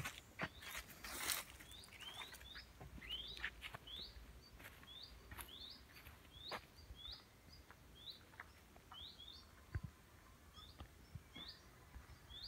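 A small songbird calling over and over, a short upswept note repeated one to two times a second. Footsteps on a dirt path tick underneath, with a brief rustle about a second in.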